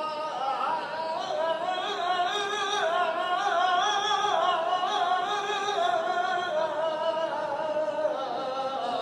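A solo voice singing a saeta in flamenco style, unaccompanied: one long melismatic line that bends and trembles through many ornamented turns.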